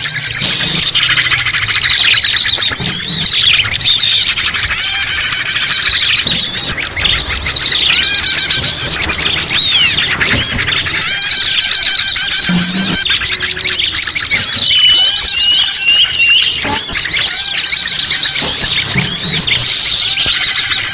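Dense chorus of many small songbirds chirping, trilling and twittering all at once, the calls overlapping with no break. It is a bird-lure call track (master pikat), played to draw wild birds in to a trap.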